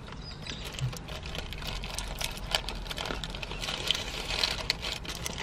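Close-up chewing of a burger: many small irregular wet clicks and smacks over a low steady hum.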